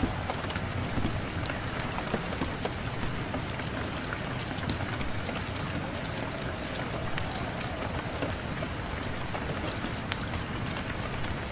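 Wood fire burning in a fireplace, crackling with frequent small sharp pops scattered irregularly over a steady rushing background of fire and wind.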